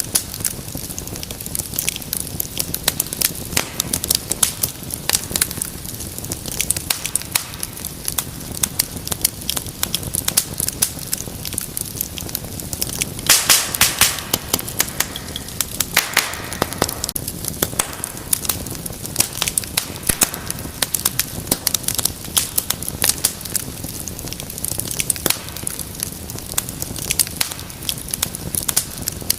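Wood fire in a fireplace crackling steadily over a low rumble of flame, with a burst of louder pops about halfway through.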